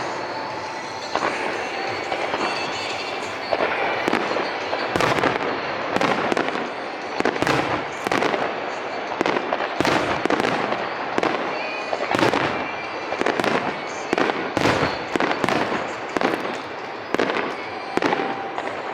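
Aerial fireworks bursting in a rapid, continuous barrage: a long run of sharp booms, often several close together, with crackle between them.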